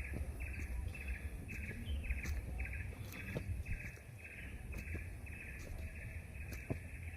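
A wild animal's buzzy call, short pulses repeating about twice a second, steady throughout, over a low outdoor rumble with scattered faint ticks.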